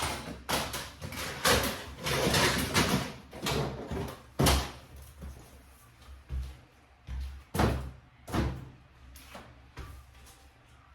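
A series of irregular knocks and thumps, close together and loudest in the first half, then more widely spaced.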